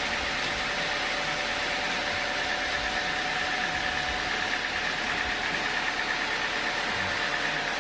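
Sawmill machinery running steadily, with a constant whine over its noise.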